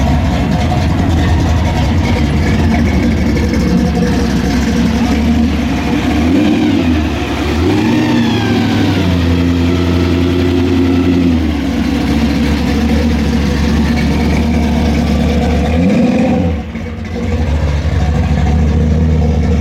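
American V8 muscle car engine running loud, with a few throttle blips that raise its pitch, about seven seconds in and again near sixteen seconds, where it briefly drops off.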